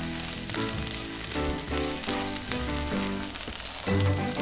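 Diced pressed tofu and shiitake mushrooms sizzling in oil in a nonstick frying pan as they are stir-fried with a spatula, the tofu being fried dry. Background music with a melody plays over the sizzle.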